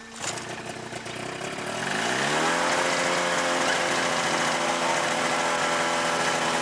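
Pterodactyl ultralight airplane's engine starting up and revving: its pitch climbs over about a second, then it runs steadily at high revs, louder than at the start.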